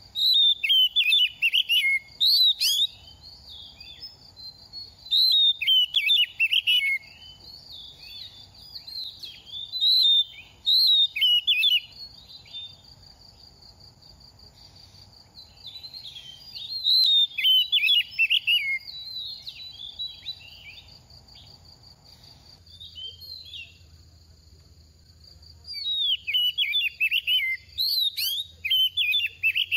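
Oriental magpie-robin singing in repeated bouts of quick, varied whistled phrases with many falling notes, pausing for a few seconds between bouts. A steady high-pitched buzz runs underneath.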